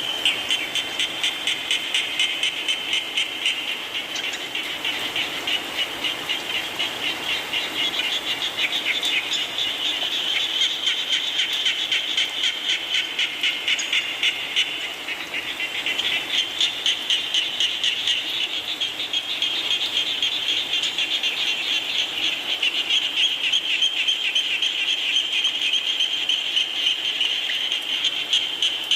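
A chorus of frogs calling in rapid pulsed trills, swelling about twice a second, over a steady hiss of falling rain.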